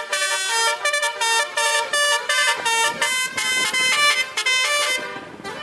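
A truck's basuri (telolet) multi-trumpet air horn playing a fast tune of short notes that change in pitch. The tune stops about five seconds in.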